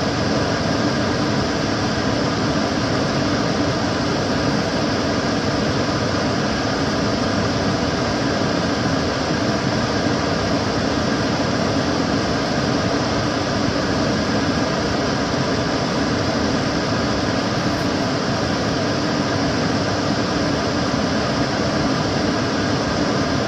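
Kitchen cooker hood extractor fan running steadily: an even rushing of air with a low hum beneath it.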